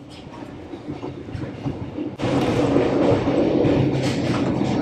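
Sleeper train running, heard from inside a passenger compartment: a low rumble with irregular wheel-on-rail clatter. About two seconds in it suddenly gets louder and rougher.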